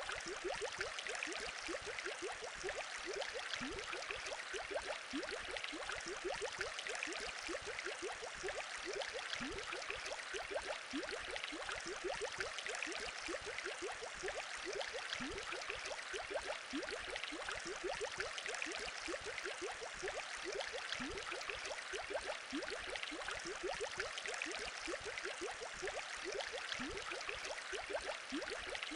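Aquarium water bubbling steadily: a dense stream of small bubble blips over a constant fizzing hiss.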